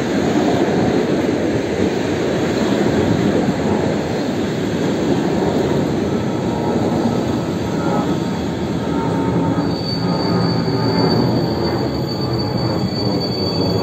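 A train running past, loud and steady, with a steady high wheel squeal that joins about two-thirds of the way through and holds on.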